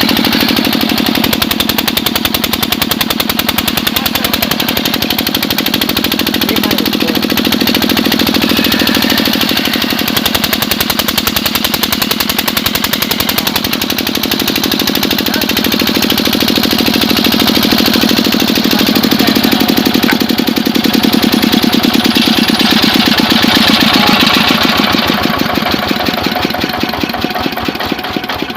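Kirloskar diesel engine running steadily with a rapid, even knocking beat, its level falling away over the last few seconds.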